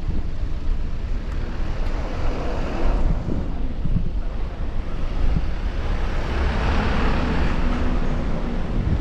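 Wind rumbling on the microphone over outdoor road-traffic noise. The traffic swells about two seconds in and again around seven seconds, as vehicles pass.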